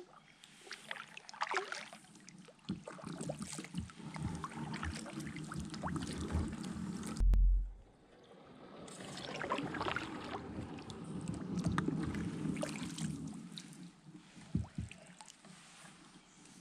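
Water sloshing and splashing in swells, with scattered small knocks and one heavy low thump about seven seconds in.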